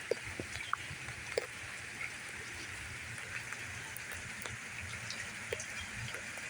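Heavy rain falling in a steady downpour: an even hiss with scattered louder drops ticking and plinking on nearby surfaces.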